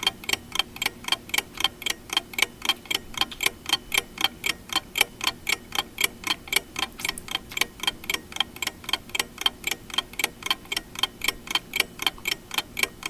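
Steady, evenly spaced mechanical ticking, about four ticks a second.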